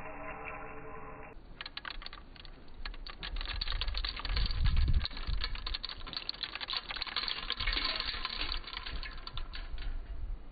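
Background music for about the first second, then dense, irregular clicking of roasted coffee beans being dropped by hand into a stainless-steel hand coffee grinder, with a low muffled thump about halfway through.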